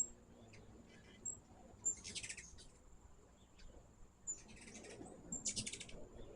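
Hummingbirds calling: short sharp high chips and rapid buzzy chattering bursts, one about two seconds in and two more around the five-second mark, over a steady thin high-pitched tone.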